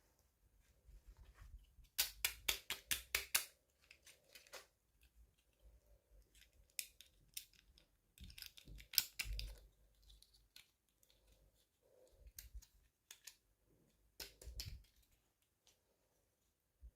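Scissors snipping in short, quick runs of sharp clicks: a fast run about two seconds in, another around eight seconds, and a shorter one near the end, with lighter clicks between.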